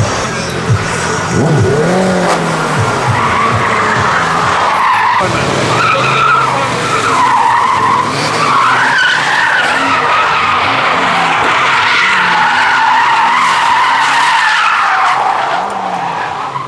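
A car drifting, its tyres squealing in a long wavering screech that starts about three seconds in, while the engine revs rise and fall over and over.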